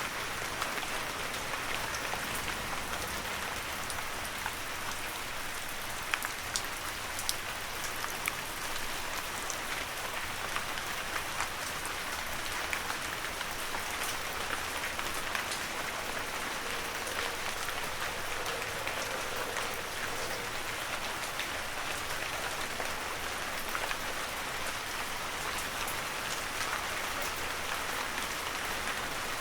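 Heavy rain falling steadily, a dense even hiss with many individual drop ticks scattered through it.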